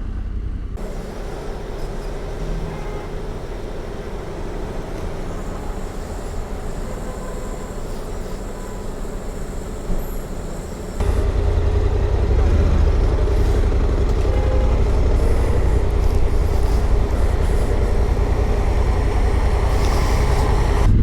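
Motor vehicle engine running steadily with road noise; a louder, deeper low rumble takes over about halfway through.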